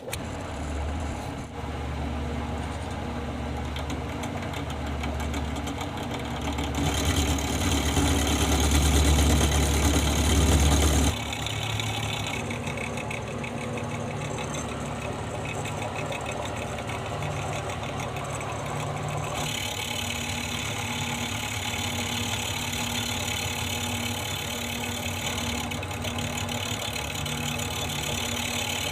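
Workshop machine driven by an electric motor, running steadily with a low hum. It starts abruptly, gets louder and busier for a few seconds in the middle, then settles back to a steadier running sound that changes character a couple of times.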